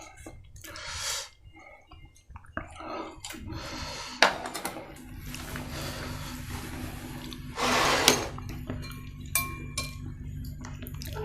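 Plate and utensil clinks and scrapes while someone eats a meal, with several sharp taps and a short, louder scrape or crunch about eight seconds in. A faint low hum comes in about halfway through.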